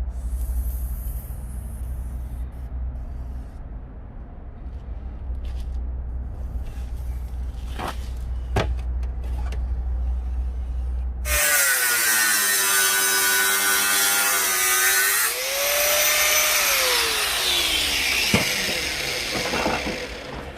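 A steady low hum with a few scattered knocks, then about halfway through a handheld electric power tool starts loud. Its motor whine sags and recovers as it bites into the work, then falls away in pitch near the end.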